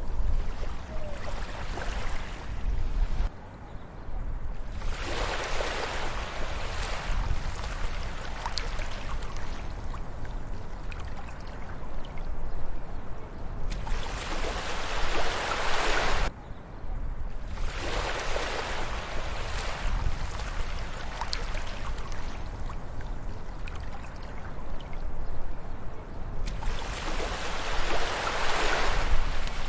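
Ocean waves washing up a beach, each wash rising to a loud hiss for a few seconds over a steady low rumble of surf, about five washes in all. Two of the washes cut off suddenly, about three seconds in and just past the middle.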